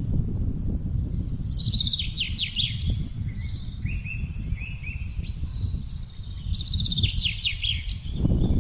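Wind blowing steadily with songbirds singing over it: two quick trilled phrases of rapid falling notes, with shorter chirps in between. The wind grows louder near the end.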